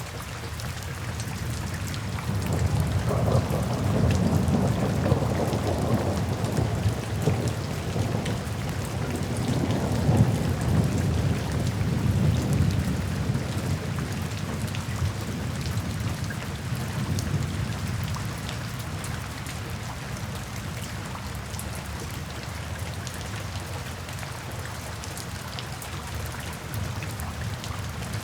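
Steady rain with a long roll of distant thunder that swells about two seconds in and fades away over the next fifteen seconds or so, leaving the rain alone.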